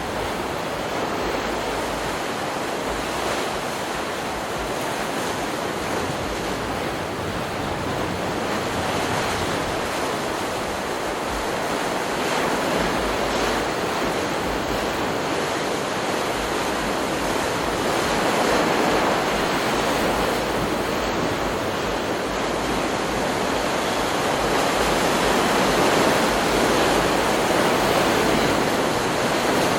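Ocean surf from a stock beach recording: waves breaking and washing ashore in a steady rush. It swells a little louder every several seconds.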